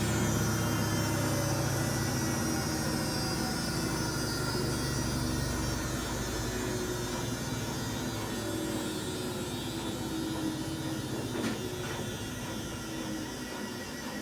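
A 14-year-old Samsung washing machine's drum spinning down from a high-speed spin. A high whine falls slowly in pitch, and a low rumble fades out about halfway through. The owner suspects worn drum bearings for the noise it makes when spinning.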